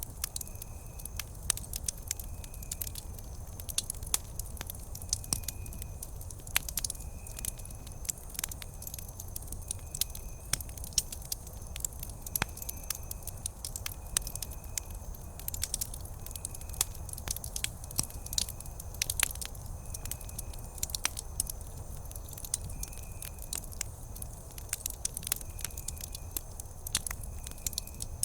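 Wood campfire crackling, with sharp irregular snaps and pops over a low steady rumble of the burning fire. A faint short high chirp repeats about once a second in the background.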